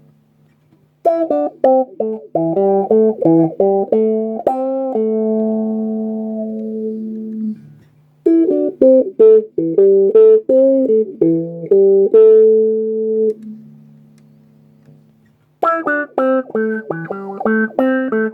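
Electric guitar played through a homemade effects circuit fitted with a 20k pot in series with its LDR, giving a nice and honky tone. There are three runs of picked notes, the last notes of each left ringing, with a low steady hum in the pauses between runs.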